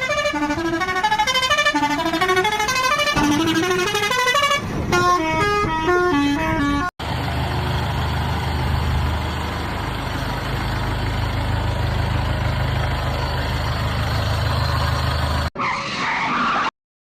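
Music of quick plucked notes, cut off suddenly about seven seconds in by a steady vehicle engine running with a low rumble and hiss. The engine sound stops abruptly near the end.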